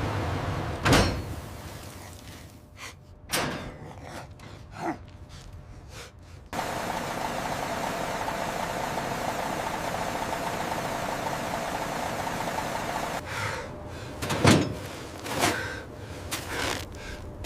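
A few sharp knocks and clanks, then a steady hiss that starts suddenly about six seconds in and stops about seven seconds later, followed by more knocks.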